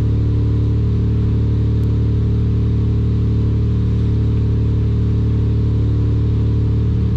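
2001 Toyota 4Runner's 3.4-litre V6 idling, a steady low hum heard from inside the cabin.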